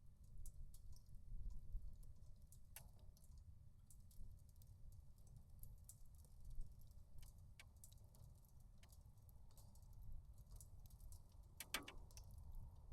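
Wood fire crackling in a portable stove: scattered sharp pops and ticks, with a quick louder cluster near the end, over a faint low rumble.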